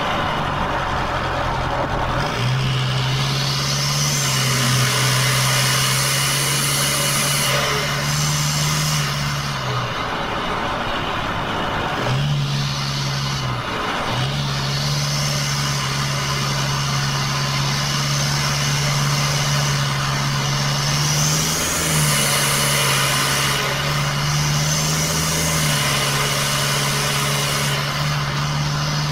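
Toyota 2KD-FTV four-cylinder turbodiesel heard from inside the cabin at highway speed, with a steady engine drone over tyre and wind noise. The engine note drops away briefly a few times in the middle and steps up and down in pitch, as the throttle is lifted and reapplied.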